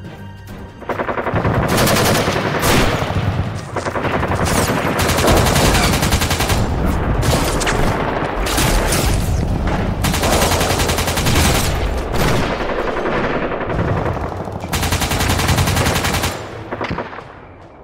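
Rapid machine-gun fire sounds starting about a second in and running in long bursts with a few short breaks, stopping shortly before the end.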